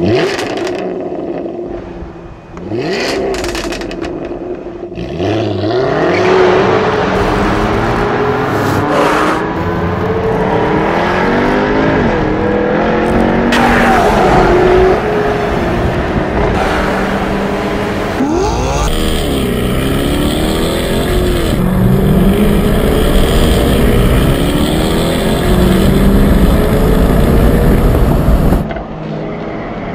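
Jaguar F-Type S's supercharged 3.0-litre V6 revving and accelerating hard. Its pitch climbs and drops back again and again as it runs up through the gears.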